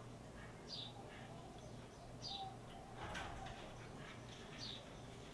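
A bird chirping faintly in the background, one short high call about every second and a half, with a single click about three seconds in.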